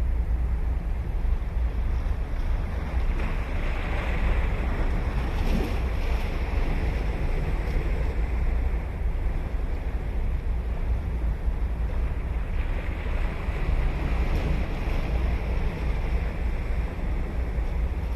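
Ocean surf breaking and washing ashore on a sea beach, swelling twice, about four seconds in and again about twelve seconds in, over a steady low rumble of wind on the microphone.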